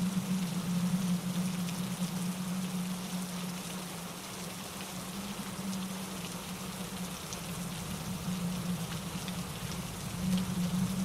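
Steady rain with fine raindrop patter, over a low steady rush of a mountain stream tumbling over rocks and wind in the trees. The low rush eases a little in the middle and swells again near the end.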